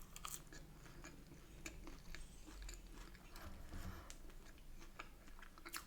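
Faint close-up chewing of fish and chips, with small scattered mouth clicks.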